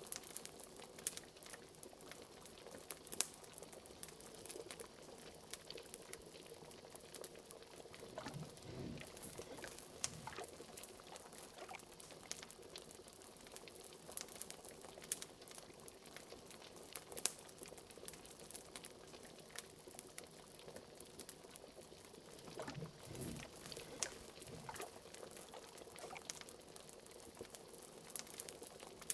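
Thick liquid bubbling at a simmer, with a steady stream of small sharp pops and crackles. It deepens into slower, fuller glugs about eight seconds in and again near the end.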